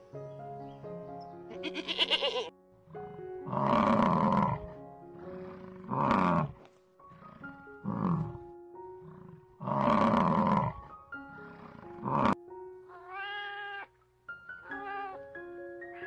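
A goat bleats once about two seconds in, then a water buffalo gives about five deep, loud calls. Near the end a cat meows several times. Background music plays throughout.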